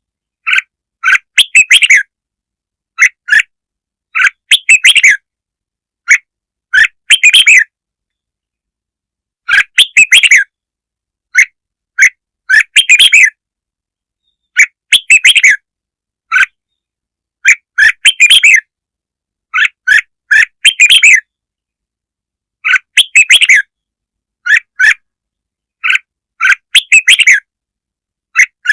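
Red-whiskered bulbul song: short, loud phrases of chirping notes repeated every second or two with brief silent gaps between them, the kind of call played to lure and provoke bulbuls.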